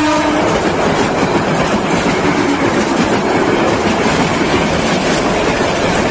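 Bangladesh Railway passenger coaches rolling past at close range, a steady rumble and clatter of wheels on the rails. The locomotive horn's blast cuts off about half a second in.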